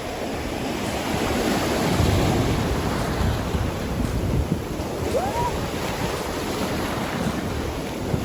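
Wind buffeting the microphone over the rush of water or surf. A single short rising call comes about five seconds in.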